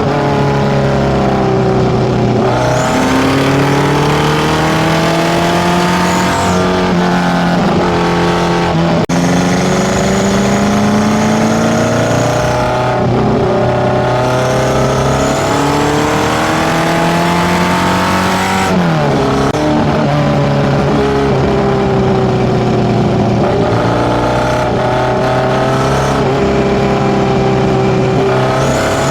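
Datsun B210's tuned A15 four-cylinder, breathing through FCR41 carburettors and a one-off 54 mm stainless exhaust, running loud. Its pitch climbs steadily for several seconds, then drops back sharply, several times over.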